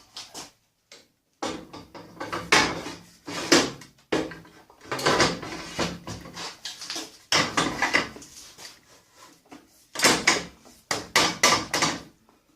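Metal table saw fence parts being handled and fitted: repeated clunks, knocks and scraping rattles as the fence and rail are set on the saw.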